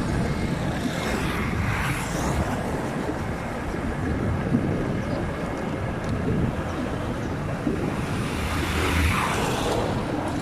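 Road traffic noise heard from a moving bicycle: a steady rush, swelling as vehicles pass about two seconds in and again near the end.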